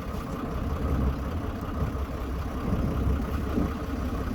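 Tour boat's engine running steadily, a low rumble with a faint hiss above it.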